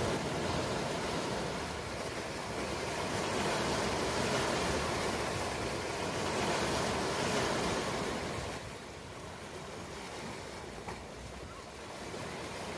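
Ocean surf: a wave washes in as a long, swelling rush of noise that eases off about two-thirds of the way through.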